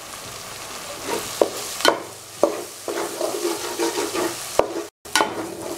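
Ginger-garlic paste sizzling in hot sesame oil in an aluminium pot as it is stirred with a steel spoon, with several sharp clinks of the spoon against the pot. The paste is being sautéed to cook off its raw smell.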